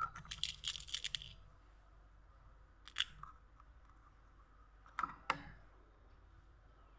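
Small mechanical clicks and rattles of a PCP air rifle's action being handled between shots, typical of re-cocking and loading the next pellet: a quick cluster of clicks in the first second, then a single click about three seconds in and two sharp clicks about five seconds in.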